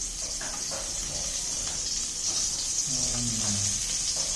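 Food frying in a pan, a steady high sizzle. About three seconds in there is a brief low sound from a voice, falling in pitch.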